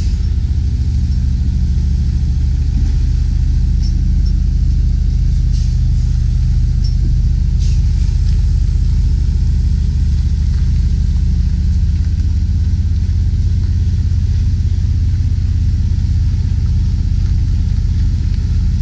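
Semi tractor's diesel engine running steadily at low speed, a deep even rumble, while the tractor-trailer backs up slowly.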